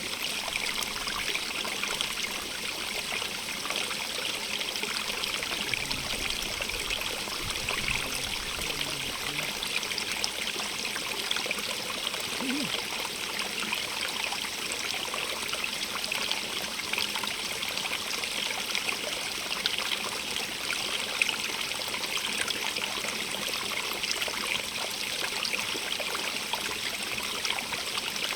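Running water, steady and even, with a fine trickling and splashing texture.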